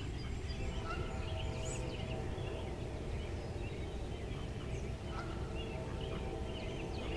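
Faint, scattered bird calls chattering over a steady low background rumble.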